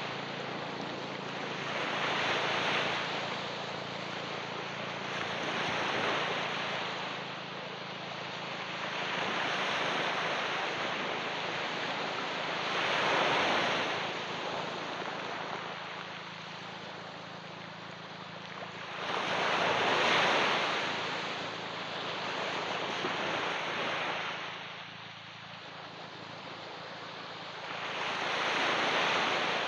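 Ocean waves washing onto a beach, the surf swelling and fading roughly every few seconds, with a faint steady low hum underneath.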